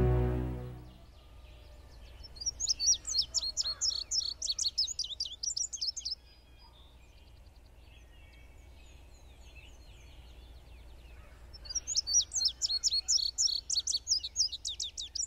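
Background music fades out in the first second. Then a songbird sings two bouts of fast, repeated, high notes that each slide down in pitch, each bout lasting about three and a half seconds, with a pause of about five seconds between them.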